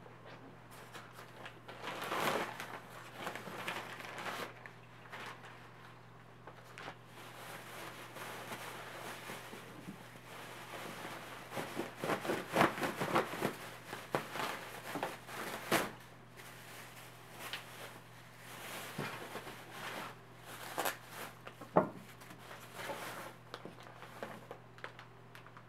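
Plastic packaging rustling and crinkling in irregular bursts as it is handled, with a few knocks and a sharp knock near the end, over a steady low hum.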